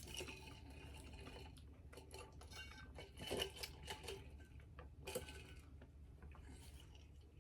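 Quiet eating sounds: faint scattered crunches and clicks from chewing crunchy keto cereal pieces, a little louder about three and five seconds in.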